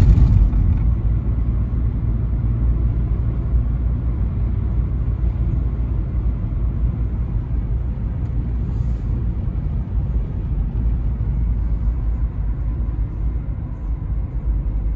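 Toyota Carina E 1.6 16V four-cylinder car driving along, its engine and road noise making a steady low rumble.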